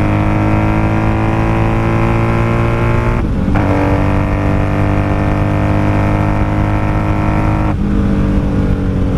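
Honda Magna VF750C V4 engine accelerating under load through the gears. The note rises steadily, with two gear changes where it dips and drops lower, about three seconds and eight seconds in. It is pulling through a flat spot in the power that the rider calls its dead spot and puts down to carburetors not rejetted for the extra airflow.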